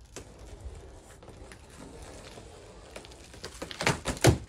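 Cardboard packaging of a large table saw box being cut open and handled: low scraping and rustling, then a quick cluster of loud knocks near the end as the cardboard and packing inside are pulled about.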